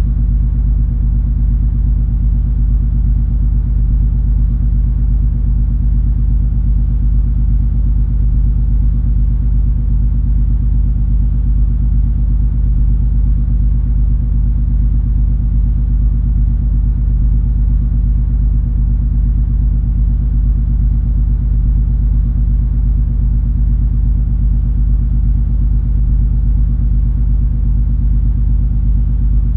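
Steady ship noise aboard the MS Color Magic cruise ferry: a deep, unchanging engine rumble with a low hum.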